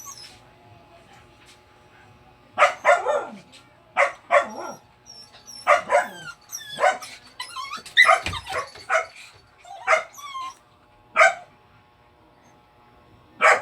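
A dog crying and barking in a run of short, loud, yelping calls whose pitch bends up and down, starting after about two and a half seconds of quiet and breaking off shortly before the end, with one more call right at the end.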